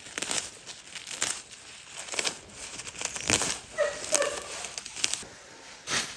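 A series of short rustling, crinkling noises, roughly one a second, with a brief chicken call about four seconds in.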